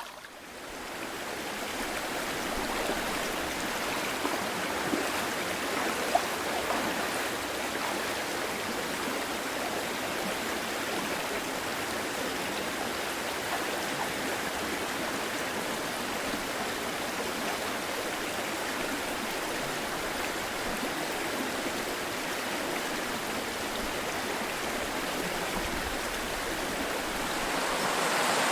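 Shallow, clear mountain river babbling steadily, the Azusa River's flowing water; it swells louder near the end.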